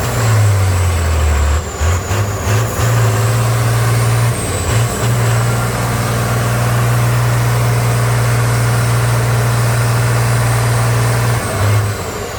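Heavy trial truck's engine running under load, its pitch shifting over the first few seconds and then holding steady, with a faint high whine above it; the steady note breaks off near the end.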